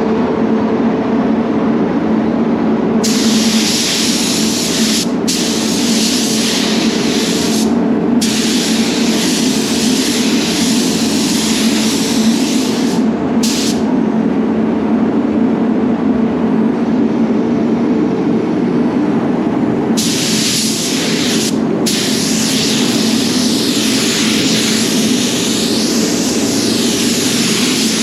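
Spray gun hissing in repeated passes as clear coat is sprayed, the hiss starting and stopping with short breaks and a longer pause midway, over the steady hum of the spray booth's extraction fans.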